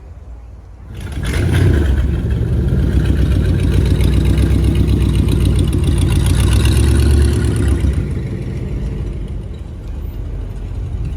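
A car engine with a loud exhaust starts up suddenly about a second in, runs strongly with a fast, even pulse for several seconds, then eases off somewhat near the end.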